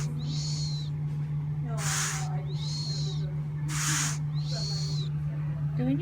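Repeated animal calls: a short harsh hiss alternating with a high, arching call, about every two seconds, over a steady low hum.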